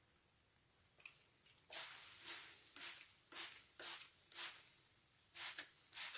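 Sponge soaked in washing machine liquid being squeezed over and over, giving wet, sudsy squelches about two a second from near two seconds in, with a short pause a little before the end.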